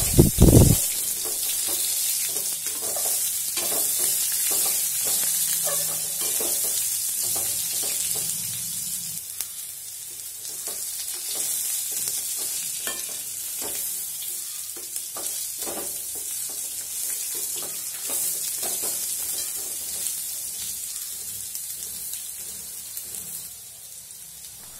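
Cubed beetroot sautéing in hot oil in a metal kadai, sizzling steadily while a wooden spatula stirs it, scraping and tapping against the pan again and again. A loud thump about half a second in.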